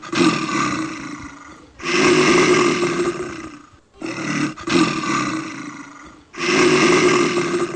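A loud beast-like roar repeated about every two seconds, each one starting sharply and slowly fading; most likely a recorded monster roar played for one of the park's figures.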